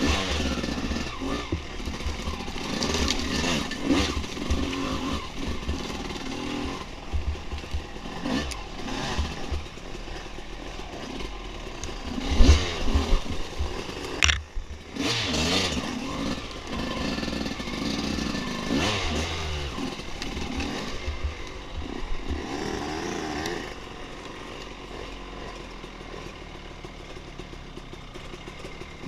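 Dirt bike engine revving up and down as it is ridden over a trail, with wind buffeting the microphone and clatter from rough ground. About two-thirds of the way through it settles to a quieter, steadier run.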